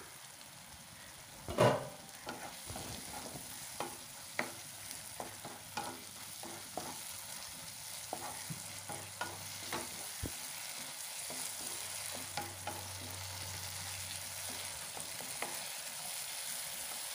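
Onion-tomato masala sizzling in oil in a non-stick pan, the tomatoes cooked down soft, while a spatula stirs it with repeated scrapes and taps against the pan. There is a louder knock about a second and a half in, and the sizzle grows slowly louder.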